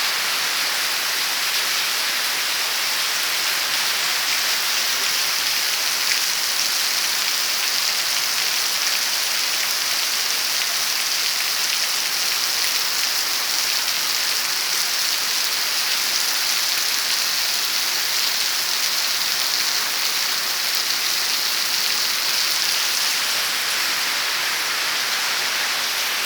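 Heavy rain falling steadily, a dense even hiss of drops striking the ground and other surfaces.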